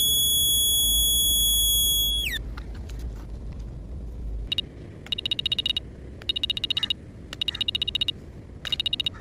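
A steady high electronic-sounding tone that cuts off sharply about two seconds in. From about halfway, an animal calls in short rapid clicking trills, each well under a second, repeated about once a second.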